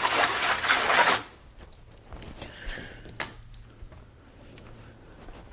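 Air blower blowing water off a freshly washed car: a loud, steady rush of air that cuts off suddenly about a second in. After it, only a few faint clicks and a low hum remain.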